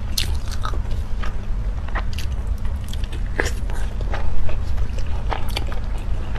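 Close-miked chewing of a soft steamed dumpling: irregular wet mouth clicks and smacks over a steady low hum, with a louder cluster of smacks a little past halfway.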